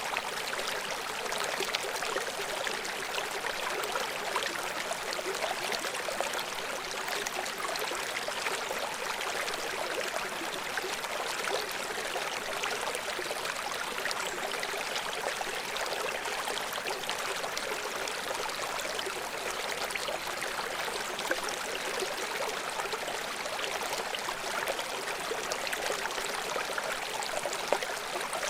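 River water flowing and splashing over rocks below a waterfall, a steady rushing with many small splashes and trickles.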